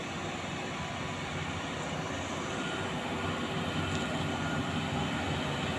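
Heavy transformer-hauling truck running as it creeps past, a steady low engine rumble growing gradually louder.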